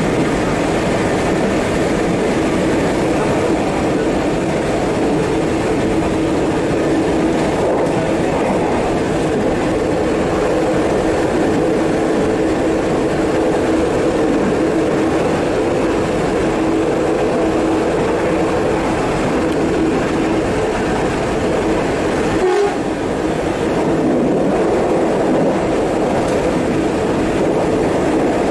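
Electric commuter train running, heard from inside the driver's cab: a steady rumble of wheels on rail. A steady two-note hum holds through the middle stretch, and a short falling tone comes near the end.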